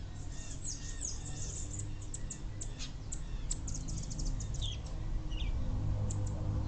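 Wild birds chirping, a rapid scatter of short high notes over a low steady hum.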